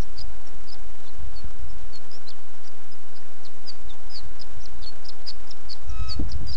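Small birds chirping, a quick stream of short, high-pitched notes several times a second, over a low rumble that swells again about six seconds in.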